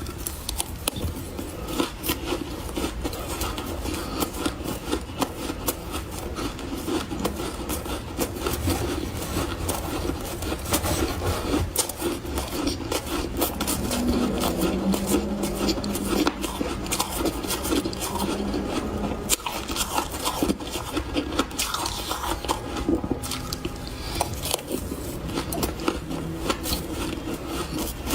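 Close-miked chewing of refrozen powdery freezer ice, a dense run of soft crunches and crackles as the icy frost is ground between the teeth.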